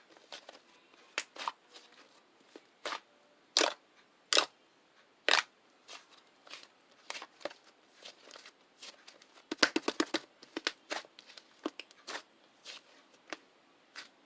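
Soft clay slime being squeezed and poked by hand, giving irregular sharp clicks and pops, with a quick run of crackling pops about ten seconds in.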